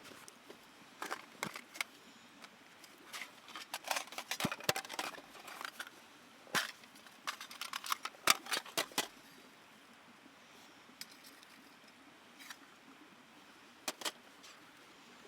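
A run of sharp, light clicks and clinks of hard objects, thickest through the first nine seconds, then a few isolated clicks near the end.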